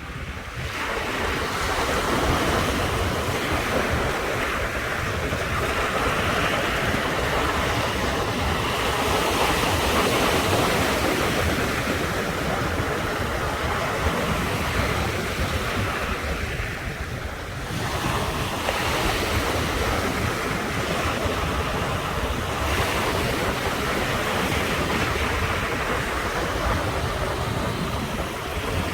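Ocean surf breaking and washing ashore continuously, swelling and easing every few seconds, with wind rumbling on the microphone. The sound fades in at the start.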